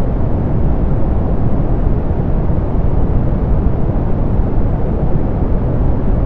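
Steady soft pink noise, a low, even hiss weighted toward the bass and muffled in the highs, unchanging throughout.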